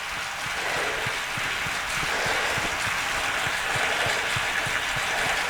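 Steady rushing hiss from an indoor cycling setup while the rider pedals at a steady tempo, with faint low ticks several times a second.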